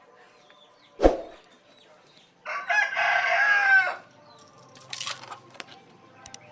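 A rooster crowing once, a call about a second and a half long, with a sharp thump a second or so before it and a few short clicks after.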